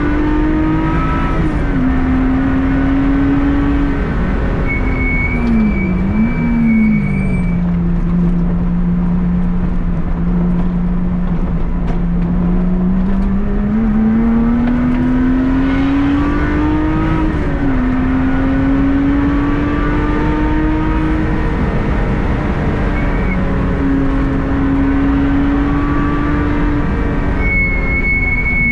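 Car engine under way on a fast track lap. Its pitch climbs steadily through the gears and drops at each gear change, about six seconds in and again about seventeen seconds in. A short high steady tone sounds twice.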